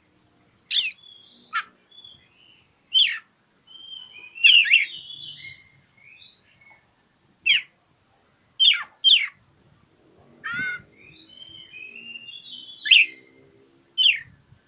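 Oriental magpie-robin singing: about ten brief, loud, sharp calls a second or so apart, with softer warbling and twittering between them.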